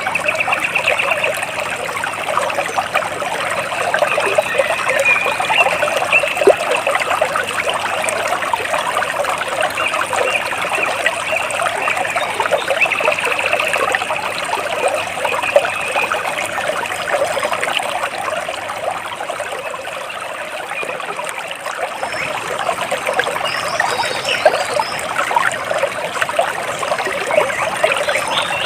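Water trickling and splashing steadily, with birds chirping and trilling faintly now and then above it.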